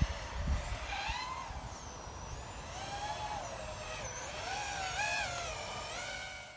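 Brushless motors and propellers of a Diatone ER349 3-inch FPV quadcopter whining in flight, the pitch rising and falling with throttle changes. The sound fades and cuts off abruptly at the very end.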